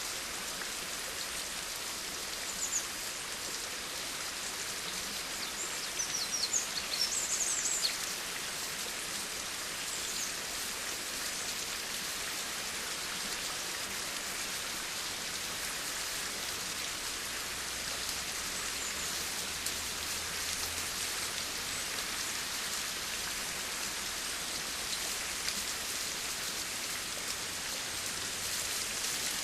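Steady rain falling, an even hiss of drops on surfaces. A few brief, higher-pitched sounds stand out about six to eight seconds in.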